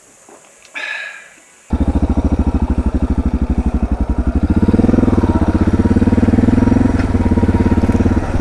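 After a short high-pitched sound about a second in, the Suzuki DR650's big single-cylinder engine starts abruptly and runs under way with a rapid even pulse. Its note rises a little about halfway through and then holds steady as the bike gathers speed.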